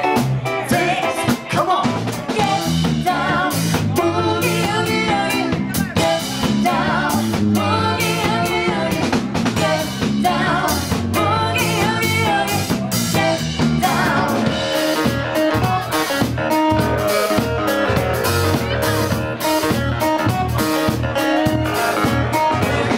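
Live rock band playing: drum kit, guitar and a singing voice, with steady drum hits through.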